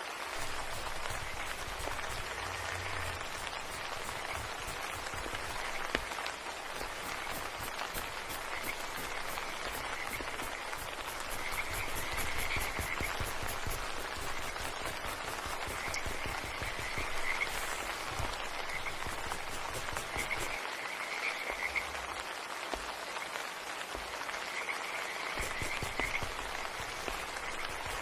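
Frogs calling in short trilling croaks, repeated every second or two, over a steady hiss of background noise.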